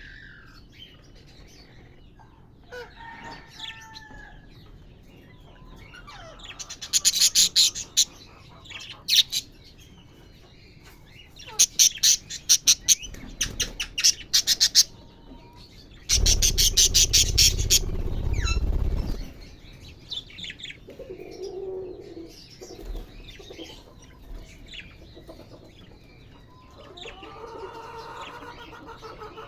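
Pet parrots chirping and calling with short rising and falling notes, broken by three loud bursts of rapid wing flapping in the middle, the last also with a low rumble.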